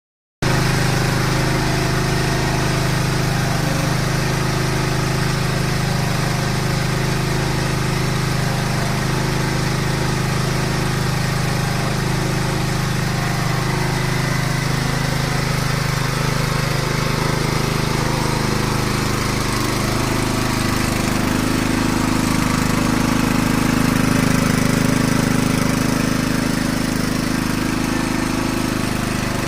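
Small 6.5 hp engine running steadily as it drives an inclined conveyor on a test run, with the conveyor's mechanism running along with it. Its tone shifts higher about twenty seconds in.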